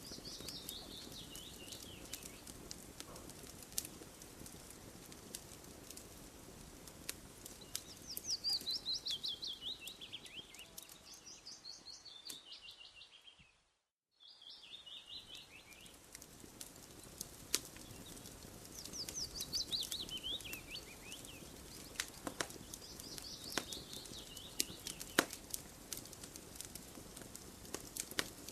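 Campfire crackling with scattered sharp pops, under a songbird's song: several high trills that fall in pitch, each lasting a second or two. About 14 s in, all sound cuts out for under a second, like a seam in a looped recording.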